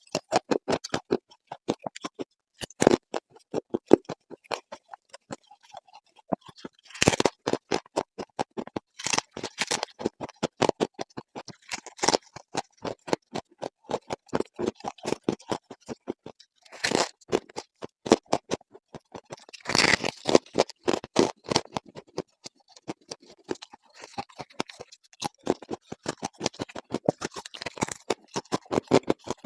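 Close-up crunching of scraped refrigerator frost ice being bitten and chewed: a rapid, continuous run of crisp crackles, with louder crunches every few seconds.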